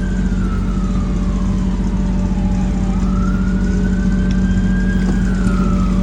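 A siren wails slowly up and down, rising and falling about once every three seconds, over the steady hum of a running engine.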